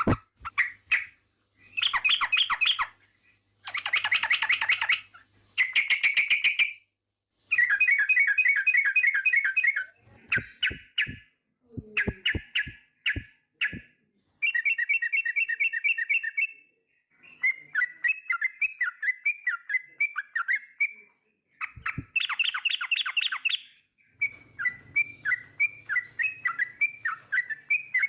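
Yellow-vented bulbul (trucukan) singing: a series of loud, bubbly chattering phrases, each one to two seconds long, separated by short pauses. Some phrases are fast and rattling, others slower and more warbled.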